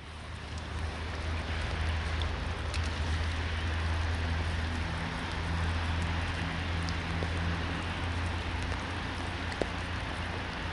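Steady rain falling, an even hiss with a few scattered drop ticks, over a steady low rumble.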